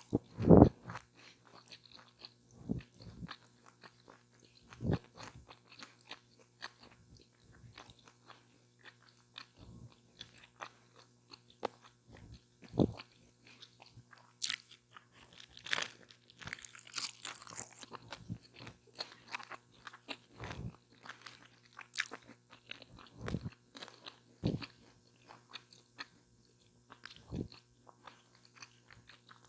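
Close-miked eating of a chicken taco with lettuce and tomato: crunchy bites and chewing in irregular bursts of crackle, with a few louder bites and a dense run of crunching about halfway through.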